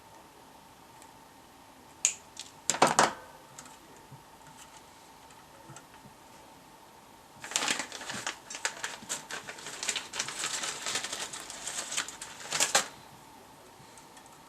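Clicking and rattling of small hard objects being handled. A few sharp clicks come two to three seconds in, then a dense run of rapid clicks from about seven and a half seconds to nearly thirteen. A faint steady high tone runs underneath.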